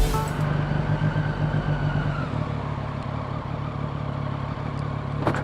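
Triumph Street Triple's three-cylinder engine running steadily while riding, over wind and road noise, with a short sharp click near the end.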